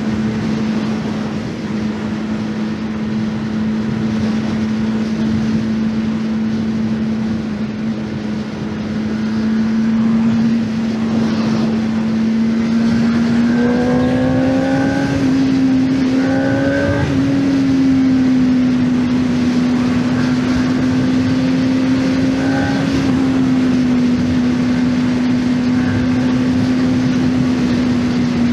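Honda CBR600RR's inline-four engine running steadily while riding, holding one fairly high pitch. About halfway through the pitch climbs a little in a few short rises, then holds steady again.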